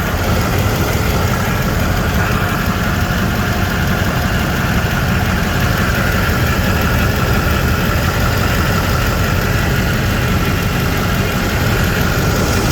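A 2008 Duramax 6.6-litre V8 turbo diesel engine idling steadily and evenly, described as very smooth and very quiet. It is a healthy-running engine showing zero blow-by at the open oil cap.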